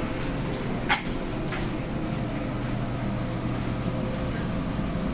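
Steady running noise with a faint hum from the SGR electric train in motion, with one sharp click about a second in.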